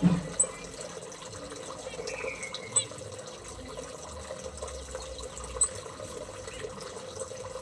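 Steady trickle of running water, with short high bird chirps about every three seconds and a brief falling call about two seconds in, under a steady low hum.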